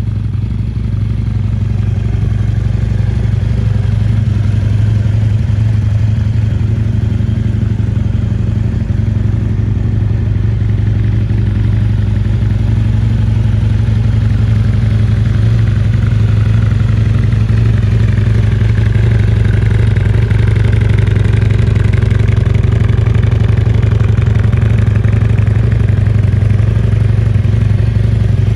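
A Husqvarna Nuda 900's parallel-twin engine idling steadily.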